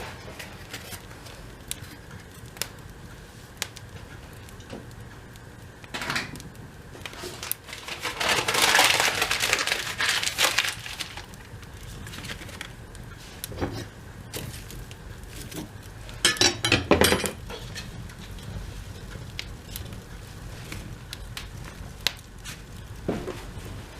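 Small wood fire of cardboard, paper and twigs crackling in a fireplace, with scattered sharp pops. Two louder stretches of rustling and knocking come about eight and sixteen seconds in.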